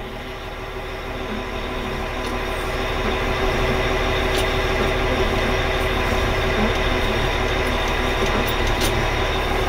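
Diesel engine of a Caterpillar 980G wheel loader running, getting louder over the first few seconds and then holding a steady drone.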